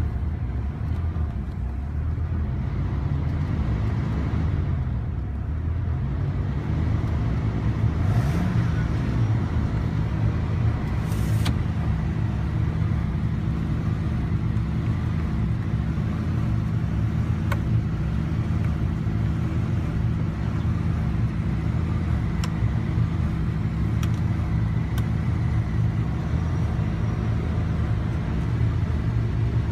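Acura MDX V6 engine running at a steady idle, its pitch briefly sagging and coming back up between about four and eight seconds in.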